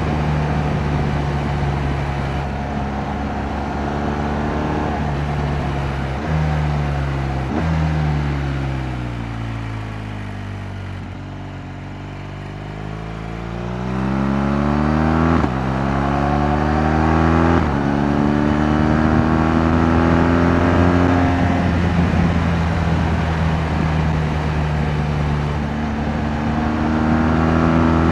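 2018 BMW R 1200 GS Adventure's liquid-cooled boxer twin on the move. It slows with two downshifts, the revs blipping up and then falling away to a low, then pulls away again through two upshifts and settles at a steady cruise, with the revs climbing again near the end.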